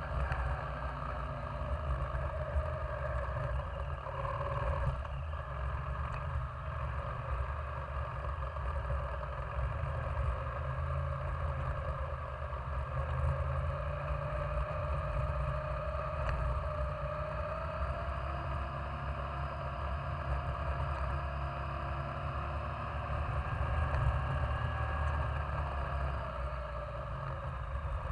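Yamaha Virago 535's V-twin engine running steadily while the motorcycle is ridden, with road and wind rush. The engine note rises a little past the middle and eases back near the end.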